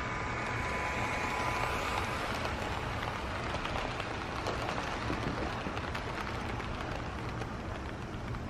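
Steady rain hiss with HO scale model freight cars rolling along the track, their wheels making a run of light clicks as the train passes.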